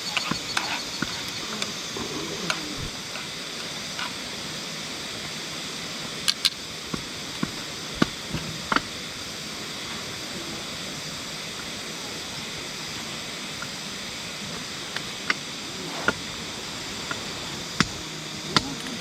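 Steady rushing of a clear mountain river's flowing water, with a few scattered sharp clicks.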